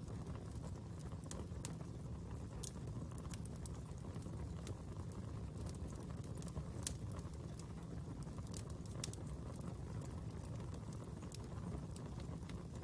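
Wood fire burning steadily, with a low rumble of flames and irregular sharp crackles and pops from the burning wood, one louder pop about seven seconds in.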